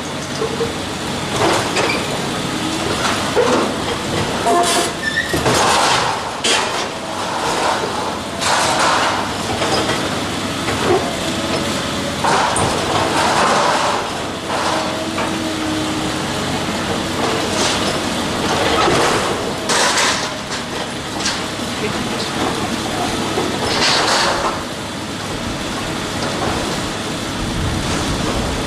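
Heavy demolition machinery working: a steady machine noise under repeated sudden crashes, clanks and scrapes of metal and debris.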